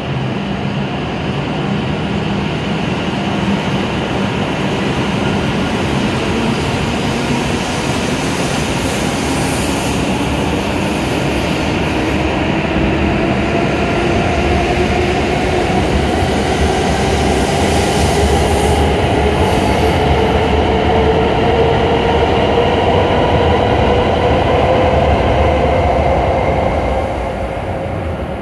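E7 series Shinkansen train pulling out and accelerating past at close range: a loud rumble of the cars going by, with the traction motors' whine rising slowly in pitch. The sound drops off sharply about a second before the end as the last car clears.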